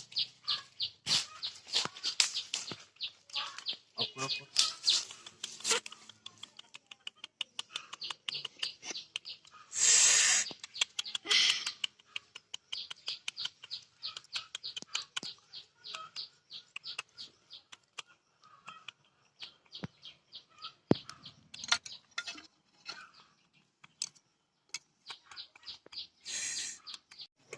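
Small birds chirping in long, rapid runs of short high notes, broken by brief loud bursts of noise about ten seconds in and again near the end.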